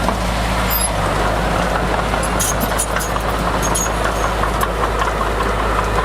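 Heavy diesel earthmoving machinery running steadily under load, with a run of short sharp clicks and squeaks in the middle.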